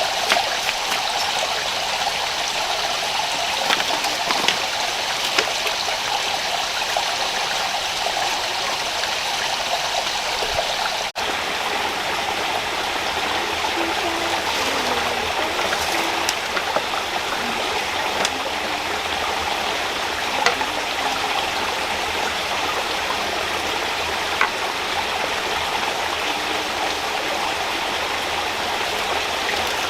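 Rushing rainforest stream running over rocks, a steady wash of water, with a few small sharp ticks here and there.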